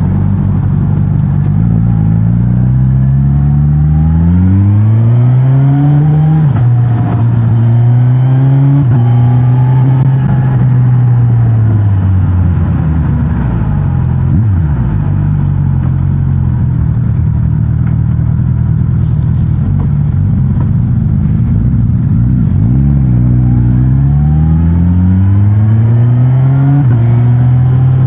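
Suzuki GSX-S1000GT's inline-four engine through its stock exhaust, pulling hard through the gears: the pitch rises and drops back at each upshift, falls away as the throttle closes, holds steady while cruising, then climbs through a few more quick upshifts near the end.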